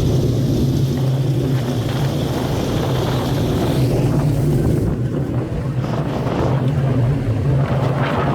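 Dirt-track race car engines running steadily, a constant low engine drone without clear revving up or down.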